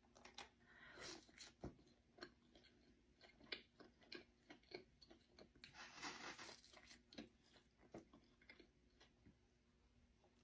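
A person eating close to the microphone: chewing with many small crunchy clicks, and a denser stretch of crunching about six seconds in.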